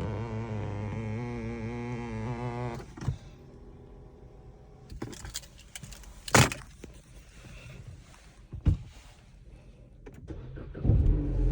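Ford Mustang engine running with a wavering rumble, then shut off about three seconds in. Small clicks and rattles follow, with two loud sharp thumps, the first about midway and the second about three seconds later.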